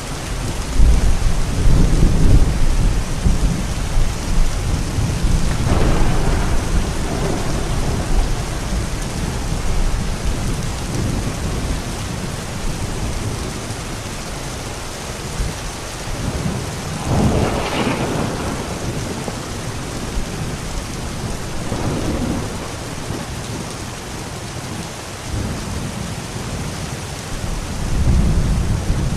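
Steady heavy rain with thunder: a low rumble about a second in and again near the end, and several shorter swells in between.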